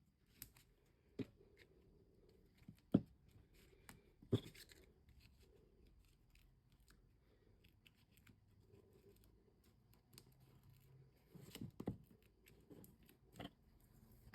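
Small foam adhesive pads being peeled off their backing sheet and pressed onto cardstock: scattered soft clicks and paper rustles, with a short flurry of clicks near the end.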